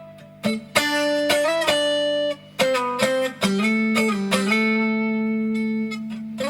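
Epiphone Les Paul Ultra electric guitar played through an amp: a phrase of picked notes and chords with short pauses, ending on a chord left ringing and slowly fading over the last two seconds.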